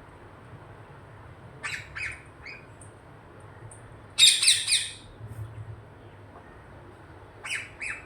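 Parrots squawking: a few short harsh calls, then a loud burst of squawks about four seconds in, and two more short calls near the end, over a faint low hum.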